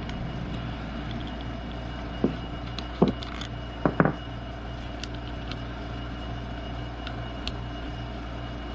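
Hand tools clinking and knocking against a motorcycle's front brake caliper while its bolts are worked loose by hand: a few sharp metal knocks around the middle, two close together about four seconds in, over a steady low hum.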